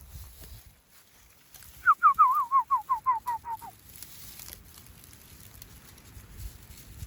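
An animal calling: a quick series of about ten short, downward-sliding notes, about six a second, each a little lower than the last, lasting about two seconds.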